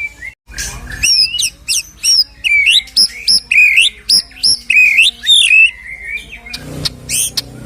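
White-rumped shama (murai batu) singing a fast run of loud, short whistled notes that sweep up and down, several a second, after a brief pause near the start. The song tails off near the end into a duller, noisier sound.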